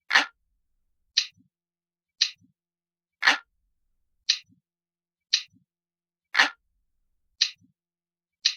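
Looped analog-clock ticking sound: sharp ticks about once a second, every third tick fuller and deeper, with silence in between.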